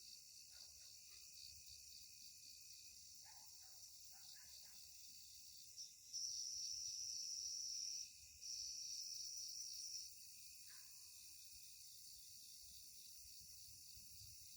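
Faint night insect chorus: a steady, pulsing high drone of crickets with a thin steady tone beneath it. A louder, higher insect trill starts about six seconds in, breaks off briefly near eight seconds and stops about ten seconds in, with a few faint short chirps scattered around it.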